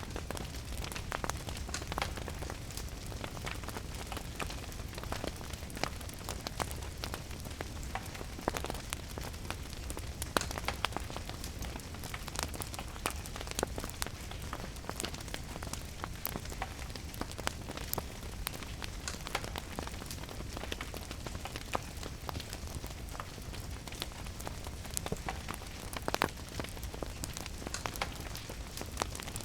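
Steady rain mixed with a crackling wood fire: a continuous hiss and low rumble with frequent sharp, irregular crackles.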